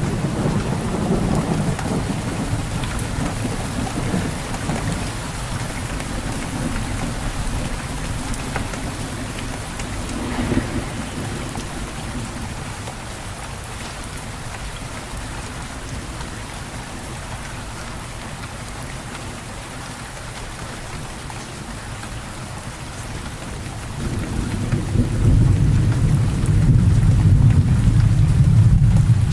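Steady rain falling, with rolling thunder: a low rumble at the start, a short swell about ten seconds in, and a louder rumble building in the last five seconds.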